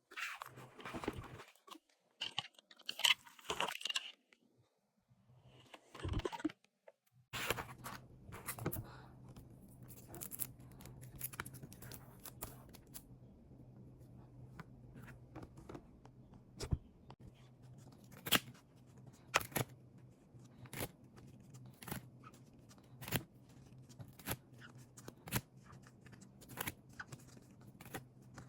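Packing sounds: packaging crinkling and tearing in irregular bursts for the first several seconds. About seven seconds in, a low steady hum starts, with scattered light clicks and taps over it.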